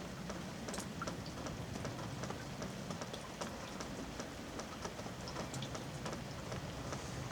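Rain falling steadily, with many separate drops ticking irregularly on a near surface.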